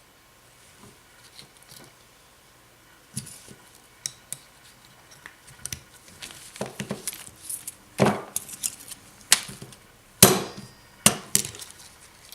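Small metal carburettor parts and hand tools clinking and knocking on a workbench as they are handled. A few light clicks at first, then a busier run of sharp knocks and rattles, loudest in the later half.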